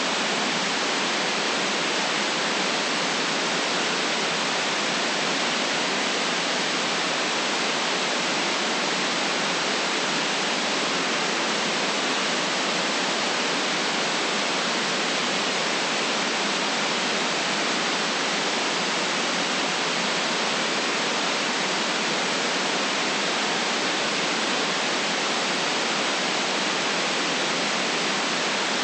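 Steady, unchanging white noise: an even hiss with no low rumble and nothing else in it.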